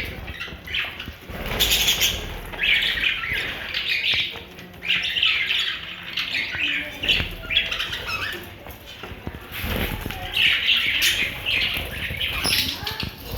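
Parrots squawking: harsh, raspy calls coming in short runs with brief gaps between them.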